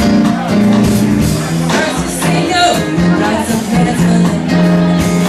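Live band playing an instrumental stretch of a rock-and-roll number, with guitar and a steady drum beat.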